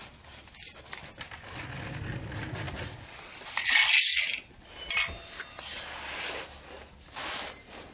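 Metal parts clinking and scraping as an unbolted component is lifted out of a Hotsy pressure washer, with a loud scrape about halfway through and a sharp clink shortly after.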